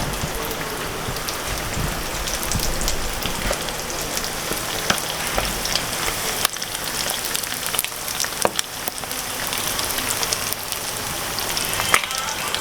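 Fish frying in hot oil, a steady sizzle with scattered small pops and crackles.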